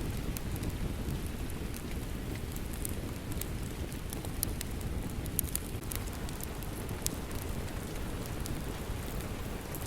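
Steady rain with a crackling wood fire: a constant low rush of rain and scattered sharp pops and crackles from the burning logs.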